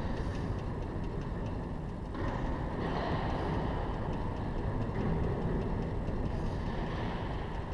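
Steady low rumbling background noise with no distinct events, such as wind on the microphone or distant machinery.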